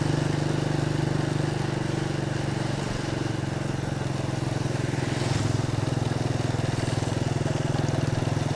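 Motorcycle engine running steadily at a cruise, with road noise under it.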